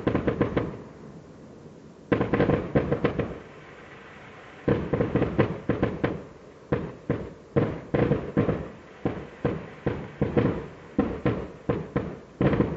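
Fireworks going off in rapid strings of sharp bangs, sounding like a gun battle. A dense cluster comes about two seconds in, and from about five seconds in a long run of bursts follows one after another, each burst several quick cracks.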